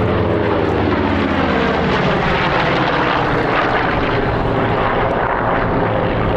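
Vought F4U Corsair's Pratt & Whitney R-2800 radial piston engine flying past, its engine note dropping in pitch as it goes by.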